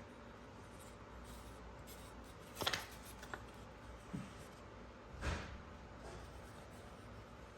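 Quiet room tone broken by a few brief scrapes and clicks of something being handled, the loudest about two and a half seconds in and another about five seconds in.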